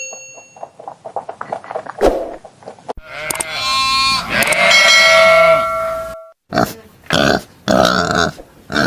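Animal calls: a run of rapid clicks, then a long squealing call with whistles through the middle, then several short calls near the end.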